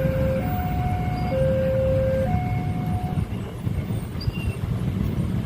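Railway level-crossing warning alarm sounding an alternating two-tone signal, low then high, each tone lasting about a second, stopping about three seconds in, over a steady low rumble.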